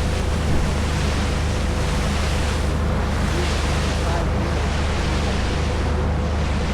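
Tour boat's engine running steadily under way, with water rushing past the hull and wind buffeting the microphone.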